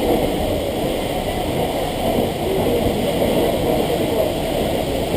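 Steady low rushing noise: a tour boat's engine running close under a large waterfall, the roar of the falling water and spray mixed in.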